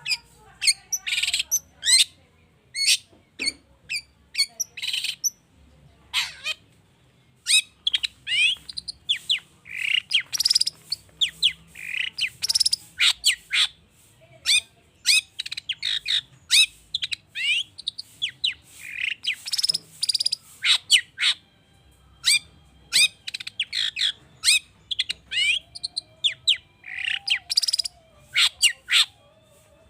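Long-tailed shrike singing a fast, varied song of sharp chirps, quick down-sweeping notes and harsh squawks in rapid bursts with short pauses, a song packed with mimicked phrases.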